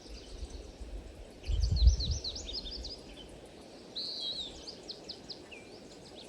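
Small birds chirping and twittering in quick, high, sweeping notes over a steady outdoor hiss. A brief low rumble comes through about two seconds in.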